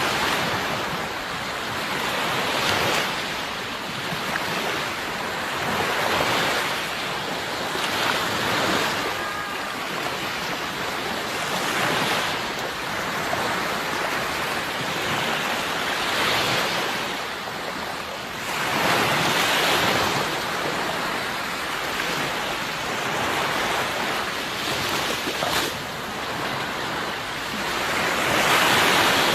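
Sea waves breaking and washing ashore, a continuous rush of surf that swells every few seconds as each wave comes in, loudest near the end.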